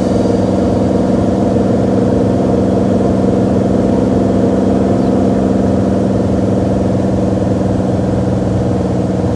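Beechcraft Bonanza's piston aircraft engine running steadily at an unchanging pitch.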